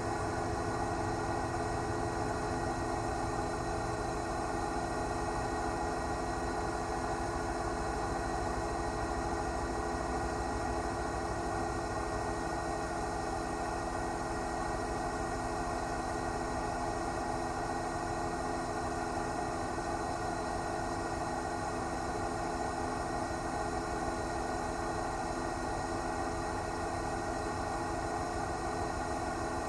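Steady drone of a news helicopter's engine and rotor, with several steady tones over a constant noise.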